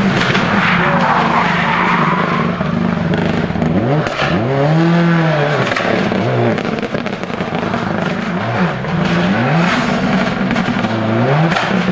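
Rally car engine driven hard on a stage, the revs climbing and dropping several times as the driver changes gear and lifts off, the biggest rise and fall about halfway through.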